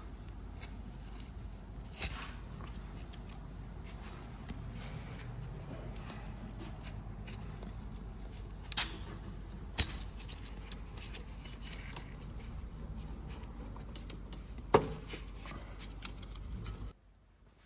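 Scattered sharp metallic clicks and knocks of tools and parts being handled during car suspension work, over a steady low background hum; the loudest knock comes near the end, shortly before the sound cuts off abruptly.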